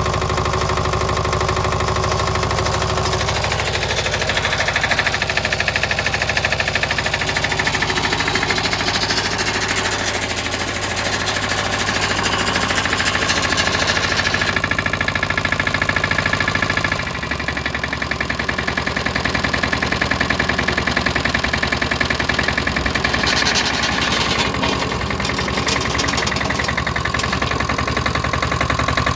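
Lombardini Tipo 520 single-cylinder diesel engine on a BCS 715 walk-behind tractor, running with a fast, even knocking beat. Its note changes several times, most clearly with a drop about 17 seconds in.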